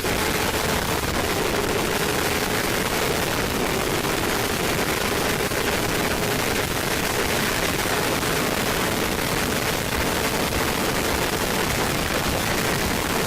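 A 1000 cc superbike at sustained high speed: a steady, dense rush of wind noise with the engine note held almost level underneath.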